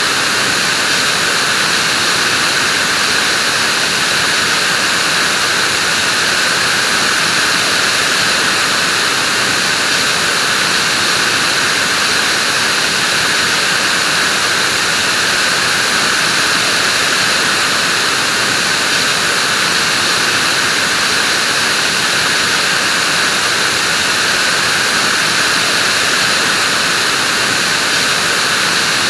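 Vacuum cleaner running steadily: an even, unchanging whooshing hiss with no change in pitch or level.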